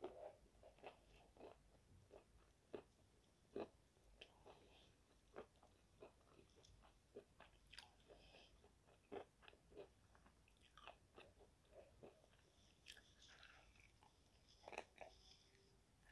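Close-miked chewing of fried chicken: soft, irregular crunches of the crispy coating and wet mouth clicks, about one or two a second.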